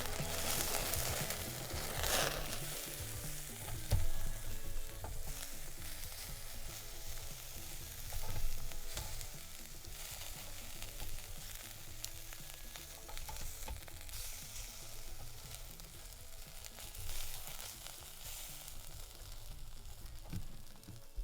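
Meat sizzling and frying on a hot grill or pan, a steady hiss with a few small pops, being stirred or turned now and then.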